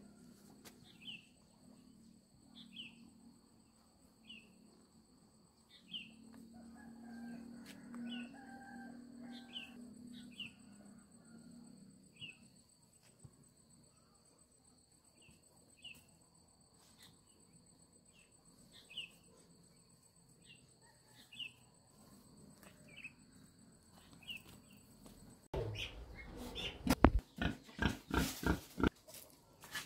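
A bird chirps repeatedly in short, high, falling chirps about every second, over a steady high insect drone. About 25 seconds in it changes to a louder run of rapid knocks and snuffling noise from a pig in its concrete pen.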